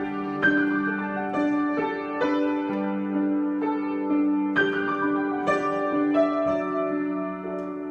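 Solo piano improvisation: slow, unhurried notes and chords, each struck and left to ring into the next over a held low note.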